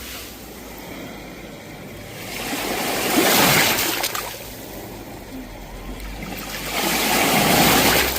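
Sea waves washing ashore: two surges of rushing surf, one peaking about three seconds in and the next about four seconds later, over a low steady rumble of the sea.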